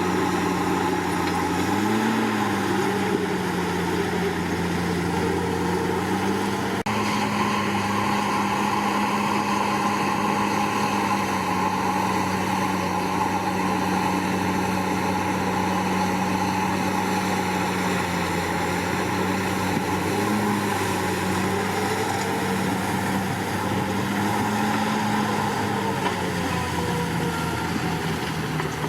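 Bulldozer's heavy diesel engine running steadily under load, its pitch rising briefly a few times as the engine speeds up.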